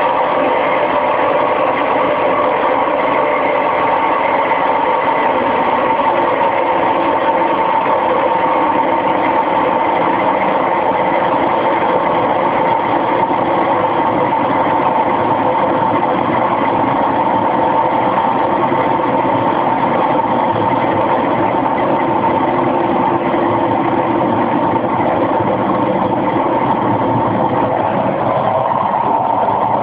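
Washing machine drum spinning at high speed in a fast spin cycle: a loud, steady mechanical drone with a constant high tone.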